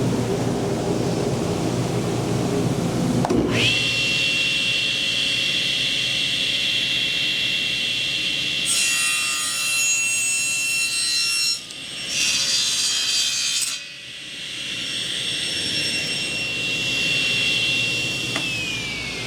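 Table saw switched on about three seconds in and running with a steady high whine. In the middle its blade, tilted to 45 degrees, cuts a bevel through a wooden board for about five seconds with a brief break partway. Near the end the saw is switched off and the whine falls in pitch as the blade spins down.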